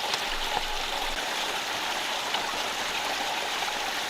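Rocky rainforest stream rushing steadily over stones.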